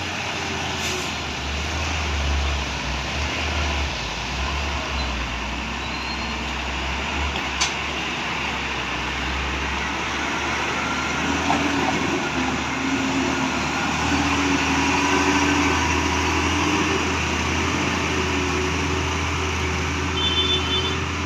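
Heavy trucks running on a road in heavy rain, their diesel engines rumbling under a steady hiss of rain and wet tyres. A single sharp click comes about a third of the way in, and the engines grow a little louder in the second half.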